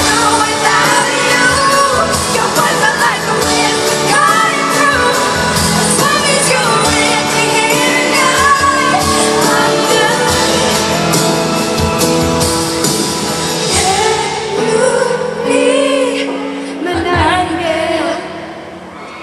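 Live pop ballad: a woman singing over band accompaniment, amplified through an arena sound system. The music thins out and quietens near the end.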